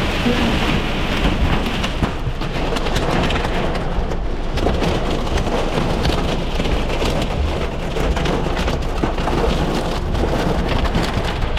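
Hail and heavy rain pelting the car's roof and glass, heard from inside the cabin as a dense, unbroken clatter of small hits over a steady low rumble.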